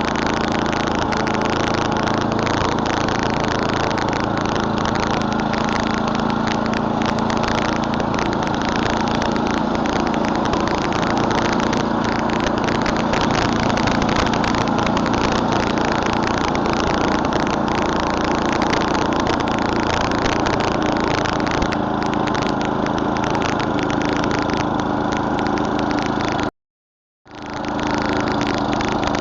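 Murray Select snowblower's 11 hp Tecumseh single-cylinder four-stroke engine running steadily while clearing snow. Near the end the sound cuts out completely for under a second, then returns.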